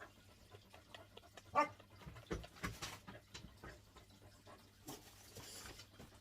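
A dog's brief whine about one and a half seconds in, with faint scattered clicks and a breathy sound near the end.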